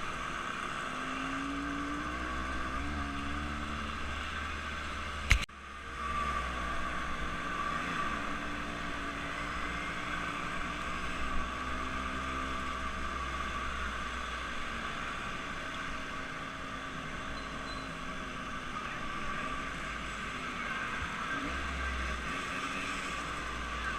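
A vehicle engine running steadily at a fairly even speed, with a brief sharp break about five seconds in.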